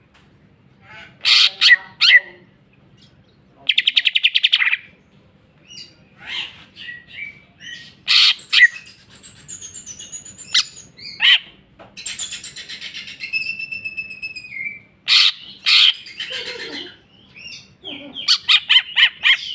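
A green leafbird (cucak ijo) singing a varied song: sharp loud notes, a fast buzzy trill about four seconds in, sliding whistled phrases, and a quick run of notes near the end.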